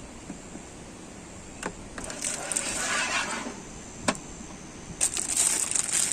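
Two bursts of rustling and crunching, with two sharp clicks between them, over a steady hiss.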